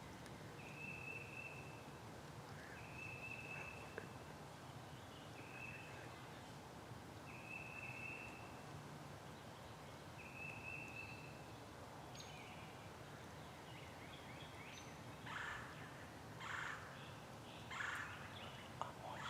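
Wild turkey gobbling three or four times in the second half, each gobble a short rattling burst. Before that, a high steady whistled note repeats about every one and a half seconds.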